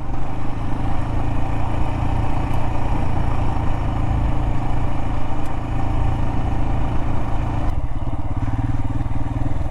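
Royal Enfield Himalayan's single-cylinder engine running steadily while the motorcycle is ridden, its rapid firing pulses plain. The higher hiss drops away about eight seconds in.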